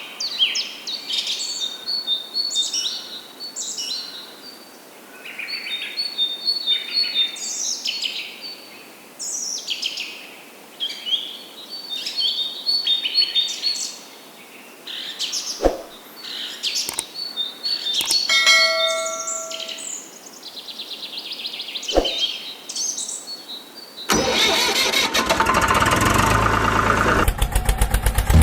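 Small birds chirping over and over, with a few sharp clicks. About 24 s in, a motor starts up and keeps running loudly with a fast, even rattle.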